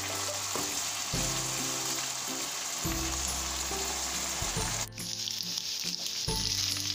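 Boneless chicken pieces sizzling as they fry in oil in a nonstick pan, stirred with a wooden spoon while their released water cooks off. The sizzle breaks off briefly about five seconds in and comes back brighter, with soft background music underneath.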